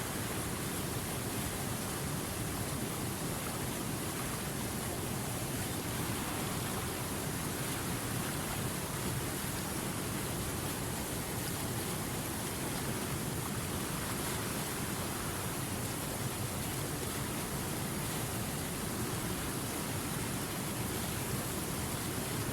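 River water rushing over rocks, a steady even hiss without change.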